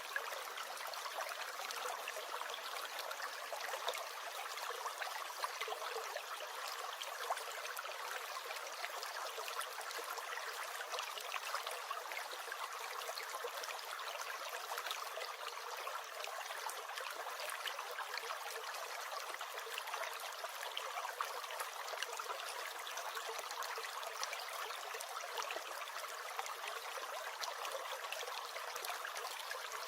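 Small stream gurgling steadily, with a constant dense patter of little splashes and trickles.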